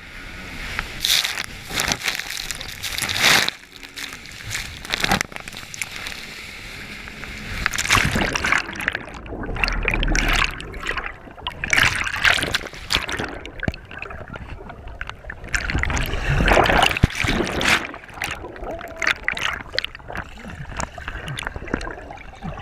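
Lake water splashing and sloshing around a moving jet ski in irregular surges, with a low rumble now and then.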